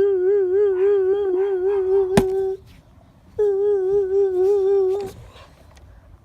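A person humming a held, wavering note, three long hums with short breaks between, and a sharp click a little over two seconds in.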